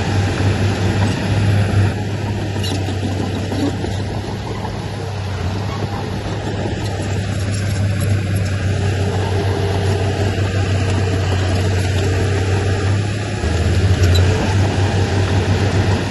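Heavy diesel engine of earthmoving machinery running, a steady low drone that grows louder about thirteen seconds in.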